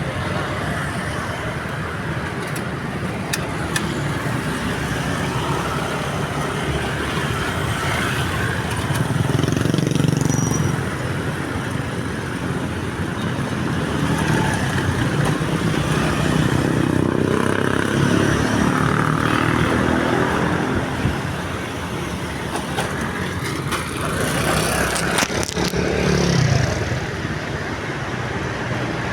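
Road traffic, cars and motorcycles, passing by in a steady stream, swelling louder as single vehicles go past.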